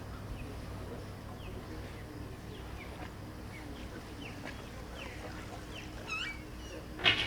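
Seagulls calling over one another: many short falling calls, with closer, clearer mewing calls starting about six seconds in. A loud sudden harsh burst comes just before the end, over a steady low rumble.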